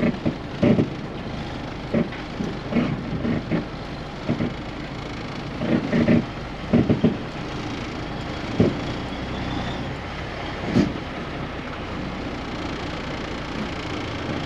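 Truck engine idling steadily, with scattered short knocks and thumps over it.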